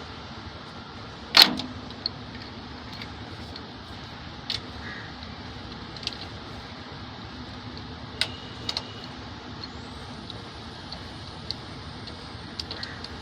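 Scattered sharp metallic clinks and taps of hand tools and engine parts being handled during rocker-arm fitting on a diesel engine, the loudest about a second and a half in, over a steady background hiss.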